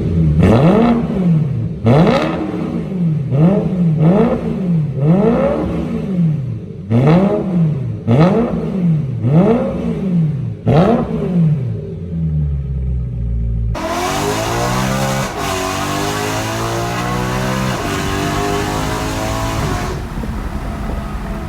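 BMW E9X M3's S65 4.0-litre V8 with an aftermarket exhaust being free-revved in quick blips, about one a second, then settling briefly to idle. About two-thirds of the way in, it cuts abruptly to another M3 accelerating under load, the exhaust note rising over heavy wind and road noise.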